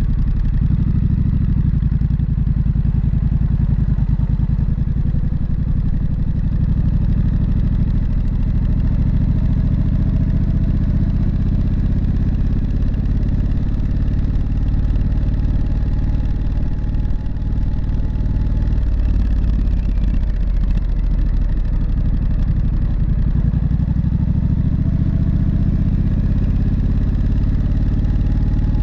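Triumph Street Scrambler's 900 cc parallel-twin engine running steadily at idle, heard through its muffler.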